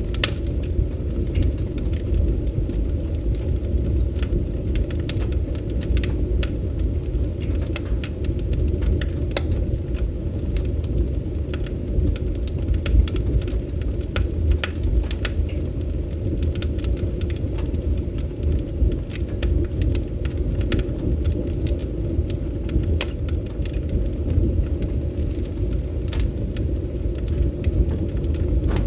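Fireplace fire burning with a steady low rumble of flames and scattered sharp crackles and pops.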